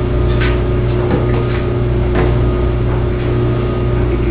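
Steady low hum with a few brief clicks.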